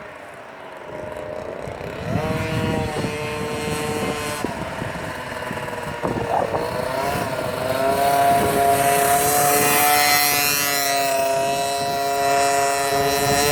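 Minibike engine running and revving, its pitch rising and falling several times and growing louder through the second half.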